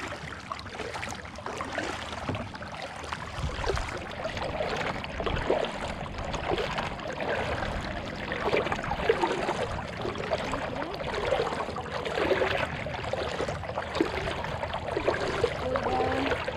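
Water gurgling and trickling around a kayak being paddled, with a steady run of small bubbling and dripping sounds from the paddle blades and the hull.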